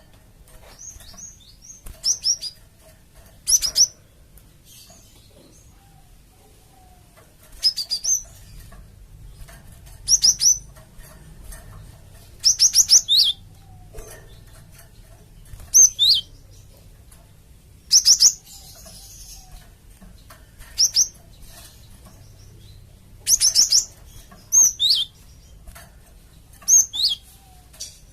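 Cinereous tit (gelatik batu) calling: short bursts of several quick, high, sharp notes, some sliding downward, repeated about every two seconds. It is a lure call meant to draw other tits into answering.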